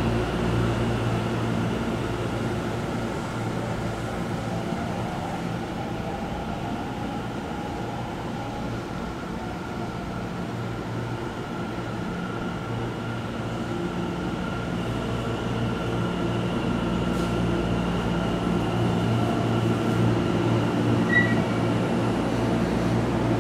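Tokyo Metro 10000 series electric train pulling into the platform and slowing to a stop, its running noise growing louder over the second half, with steady humming tones from the train's equipment throughout.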